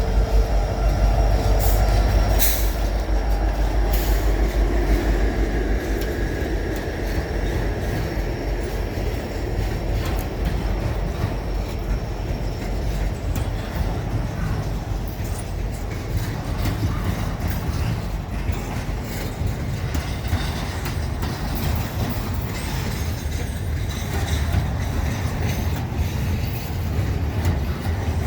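A train rolling past at close range: a steady rumble of wheels on rail with scattered clicks and faint wheel squeal. The low rumble is heaviest in the first few seconds, then eases to an even rolling noise.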